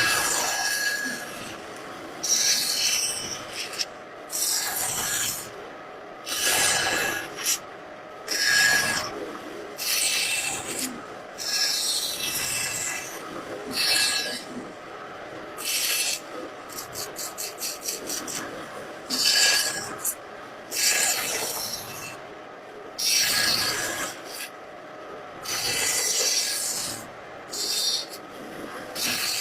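Repeated rasping strokes of a hand tool across wood, one every second or two, with a quick run of small clicks about halfway through.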